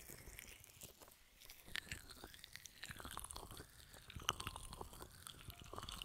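Close-miked ASMR ear-massage triggers: quick, irregular crackly scratching and tapping right on the microphone, with a few sharper clicks.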